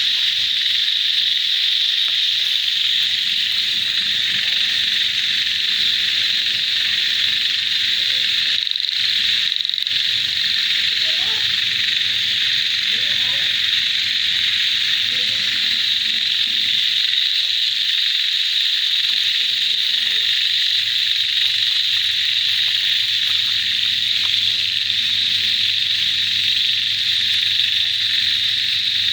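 Dense, steady chorus of many calling frogs together with crickets, a continuous high-pitched trilling that briefly dips twice about nine seconds in.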